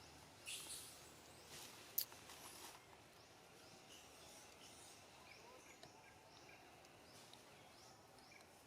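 Near silence: faint outdoor ambience with faint, repeated short chirps, typical of birds or insects. In the first three seconds there are a couple of brief rustles and one sharp click.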